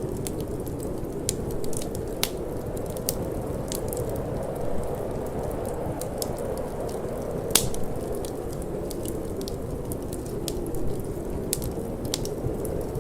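Wood fire crackling in a fireplace, with irregular sharp pops and snaps; one is louder than the rest a little past halfway. Under it runs a steady low rushing of wind.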